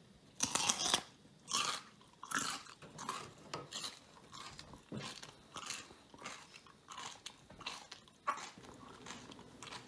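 A person bites into a raw potato with a loud crunch, then chews it with a run of crunches at about one and a half a second.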